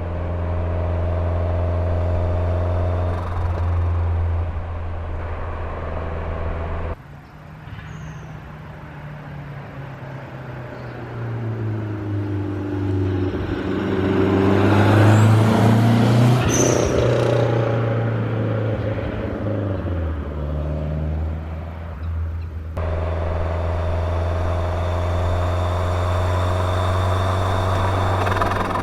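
Lancia Delta Integrale 16V's turbocharged four-cylinder engine running at a steady pitch. About a third of the way in the sound cuts to the engine building revs, rising in pitch and growing loudest near the middle, then dropping back. It then cuts back to the steady running.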